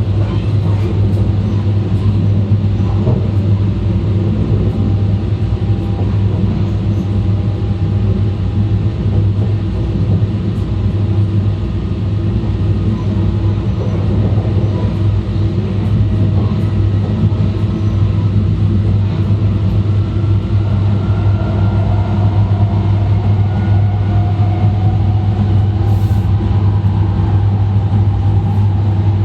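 E2-series Shinkansen running at speed, heard from inside the car vestibule: a steady deep rumble and hum of wheels and bogies on the track. A faint whine from the Mitsubishi IGBT traction equipment rises slightly in pitch in the second half.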